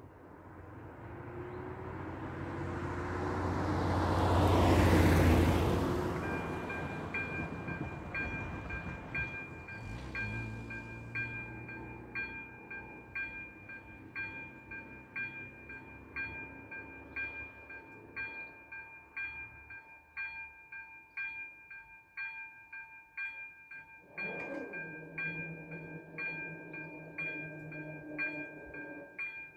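A vehicle passes close by, swelling and fading away, loudest about five seconds in. Then the level crossing's ZV-02 electronic warning bell starts ringing with evenly spaced strikes, signalling that a train is approaching, and near the end a low steady hum joins it.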